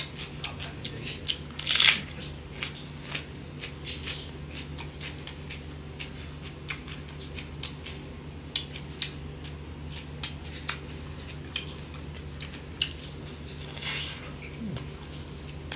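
Close-miked mouth sounds of a person eating smoked pork and rice by hand: a run of wet clicks and lip smacks while chewing, with two louder bites, one about two seconds in and one near the end, over a steady low hum.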